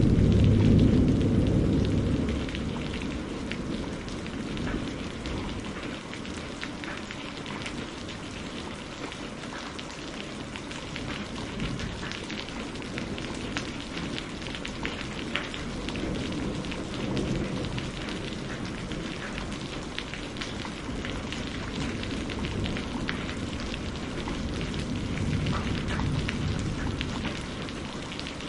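Steady rain falling, with a dense patter of drops. A thunder rumble fades away over the first few seconds, and softer, distant low rumbles swell up briefly around the middle and again near the end.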